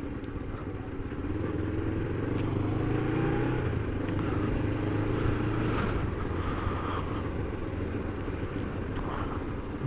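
1998 Kawasaki GPZ500's parallel-twin engine running as the motorcycle rides slowly through town, its pitch rising a little about a second and a half in and then holding steady.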